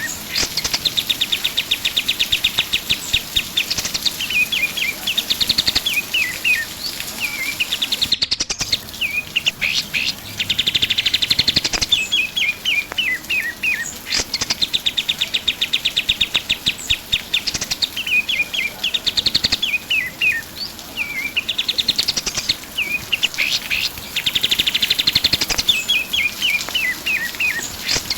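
Kapas tembak songbird singing a repeated, lively song. Each phrase runs down in a series of quick falling whistles, then breaks into a fast rattling trill, and the phrase comes round again every few seconds.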